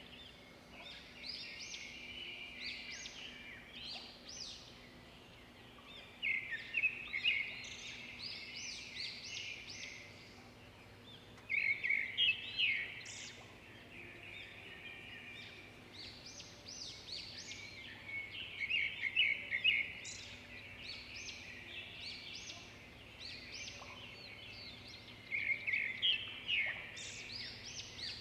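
Zebra finches chirping and calling in bursts of rapid short notes, the loudest bursts coming every five to seven seconds, over a faint steady low hum.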